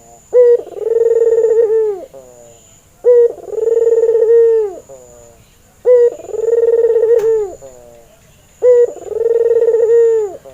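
White (albino) Barbary dove cooing: four calls about three seconds apart, each a short opening note followed by a long, steady coo that falls away at the end.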